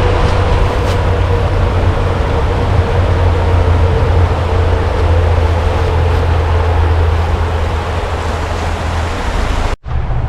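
Steady road traffic noise with a low engine hum; the hum drops away shortly before the end.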